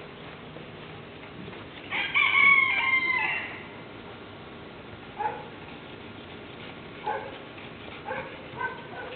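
Rooster crowing once about two seconds in, followed by a few short clucks.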